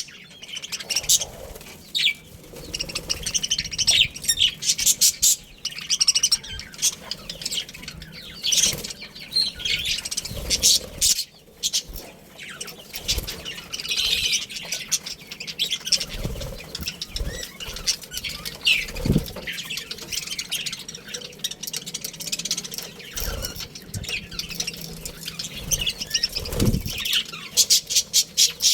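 A group of budgerigars chirping and chattering continuously, with occasional low thumps.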